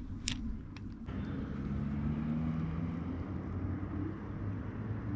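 Low engine hum from a motor vehicle, swelling about a second in and holding steady, with two small clicks near the start.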